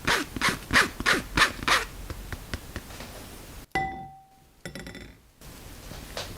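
Cake flour being sifted through a mesh sieve, shaken in short rhythmic strokes about three a second for the first two seconds. Then a single sharp metallic clink that rings briefly.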